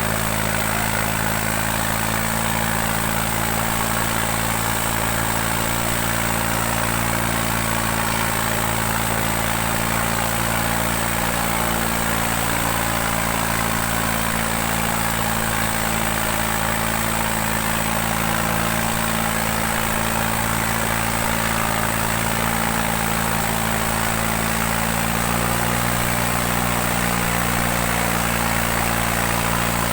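New Holland 3630 tractor's diesel engine running steadily under load while pulling two harrows; its note rises slightly and grows a little louder near the end.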